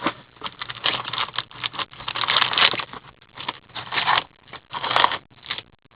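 Cardboard hobby box of 2014-15 Upper Deck Trilogy hockey cards being opened by hand and its foil packs pulled out, with irregular crinkling and scraping of wrapper and cardboard.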